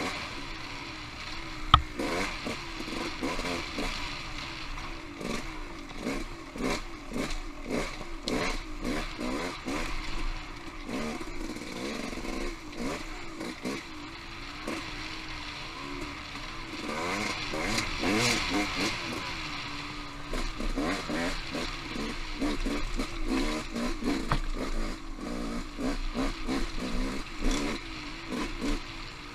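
Off-road motorcycle engine on a trail ride, its revs rising and falling with the throttle, over steady clatter and knocks from the bike on rough ground. A single sharp, loud knock comes about two seconds in.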